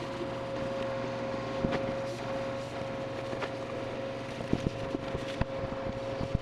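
A steady, even hum with scattered faint clicks and handling noise over it.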